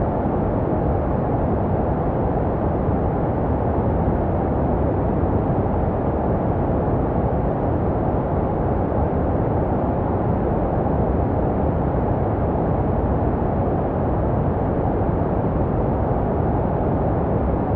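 Steady low, rumbling noise with most of its weight below about 1 kHz and little treble. It is an unchanging, constant hiss-rumble made to resemble the sound a baby hears in the womb.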